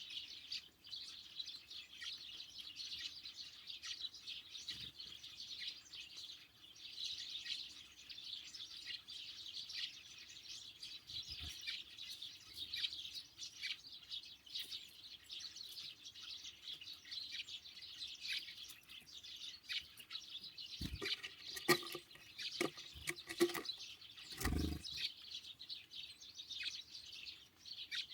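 A flock of small birds, great tits and sparrows, chirping and calling without pause around a feeder. A few sharp knocks come in a cluster about three-quarters of the way through.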